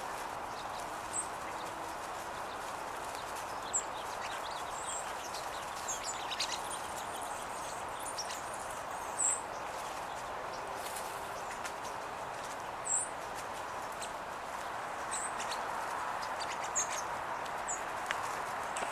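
Sparrows feeding on the ground, giving short, high chip calls scattered every second or two over steady outdoor background noise.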